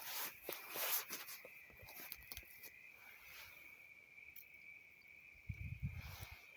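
A cricket calling with one steady, unbroken high trill in the night bush. Crackling footsteps on dry ground sound over it in the first second or so, and a brief low rumble comes near the end.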